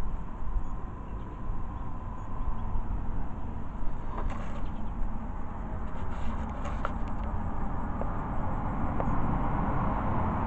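Steady low rumble of background noise, with a few light handling clicks and rustles about four seconds in and again around six to seven seconds in.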